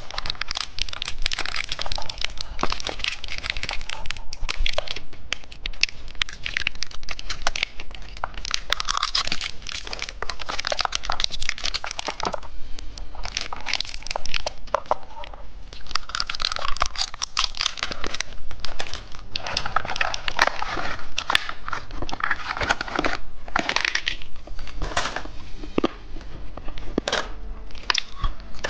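Plastic candy wrappers crinkling and tearing as packs of candy are handled and opened, in a dense, irregular run of crackles.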